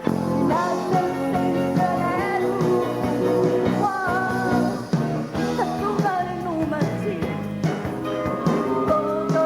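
A live band playing an upbeat rock-and-roll-style pop song, with a woman's lead vocal over it.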